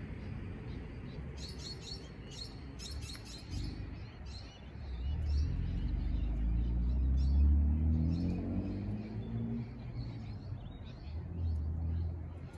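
Small birds chirping in repeated bursts over a low rumble that swells to its loudest about halfway through, with a faint hum rising in pitch.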